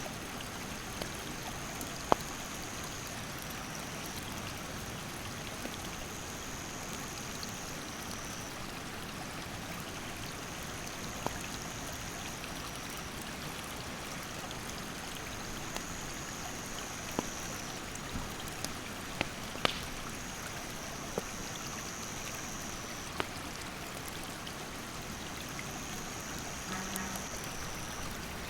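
Mountain stream rushing steadily, with a campfire's burning wood cracking in sharp pops every few seconds.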